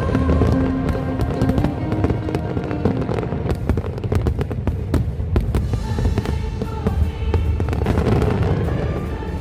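Aerial fireworks crackling and popping in dense rapid strings over a low rumble of bursts, thickest from about three seconds in, with the show's music playing alongside.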